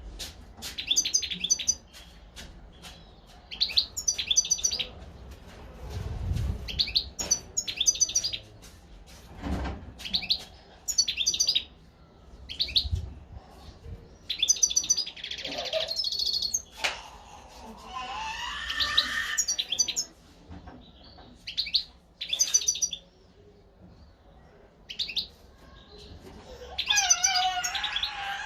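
European goldfinch singing: short bursts of bright twittering chirps every second or two, with longer warbling phrases midway and near the end. A few faint low thuds come in between.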